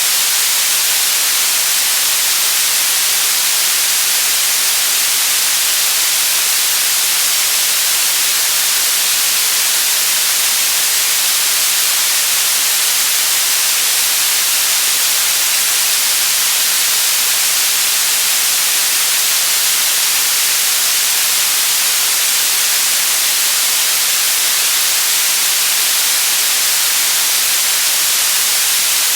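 Steady white noise: an even, unchanging hiss, bright and strongest in the treble.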